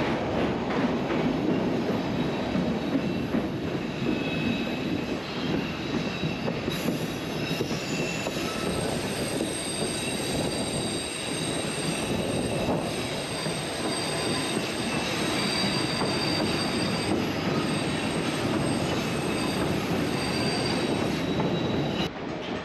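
Narrow-gauge train running with a steady rumble, its wheels squealing against the rails in thin, high tones that come and go.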